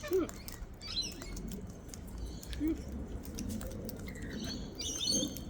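Wild cockatoos feeding at close range: scattered clicks and rustles, a few soft low calls, and a quick run of short high chirps near the end.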